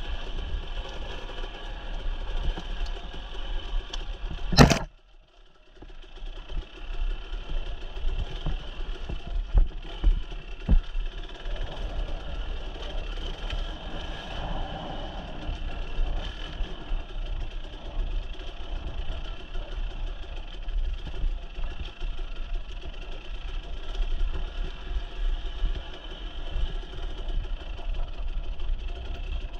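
Dirt bike engine running steadily while riding rough singletrack, with a sharp loud knock about four and a half seconds in, after which the sound briefly drops away and comes back within a couple of seconds.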